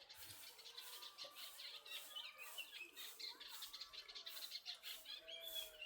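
Small birds chirping faintly, many short calls overlapping.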